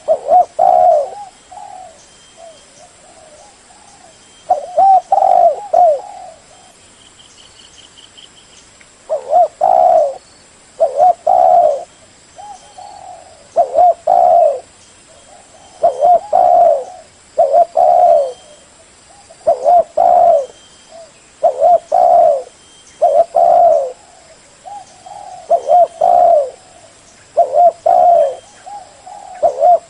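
Spotted dove cooing: a string of short, repeated coo phrases, about one every one to two seconds, with a lull of a few seconds early on before the calling resumes.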